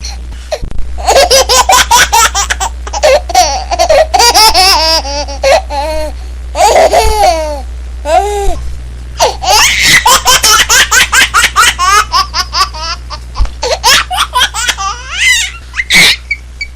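A baby laughing hard in rapid runs of high-pitched giggles and belly laughs, with short breaths and squeals between bursts. A steady low hum runs underneath.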